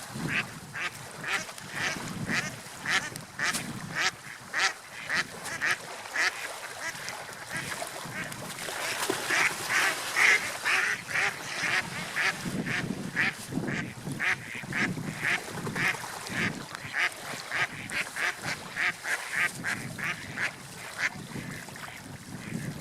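Gulls calling over and over in short, harsh calls, about two a second and busiest around the middle, over a low rushing wash of sea and wind.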